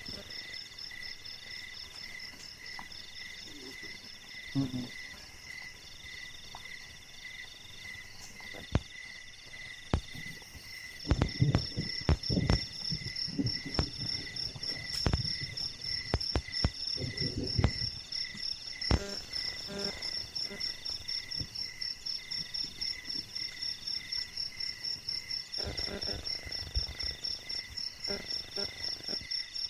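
Night chorus of crickets and other insects chirping steadily in several high, evenly pulsing tones. Scattered low knocks and rustles come through around the middle and again near the end.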